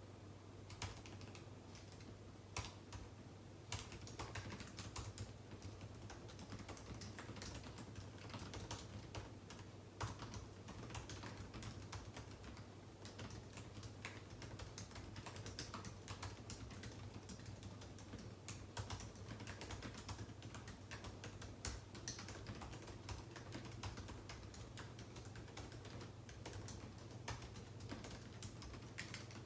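Typing on a computer keyboard: quick key clicks, scattered for the first few seconds, then a steady continuous run. A faint low hum lies underneath.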